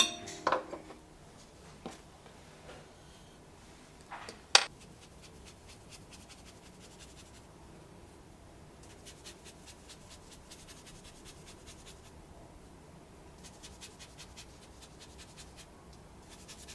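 Faint scratching and rubbing of a painting tool on paper in quick, fine strokes, coming in stretches, with a few sharp taps in the first five seconds.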